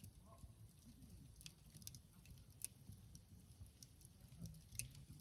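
Faint crackling of a wood campfire: scattered sharp pops, a louder one near the middle and another near the end, over a low rumble.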